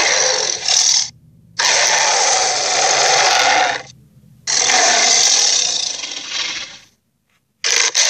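Creature sound effects: a series of harsh, breathy rasps, each about two seconds long, broken by short silences.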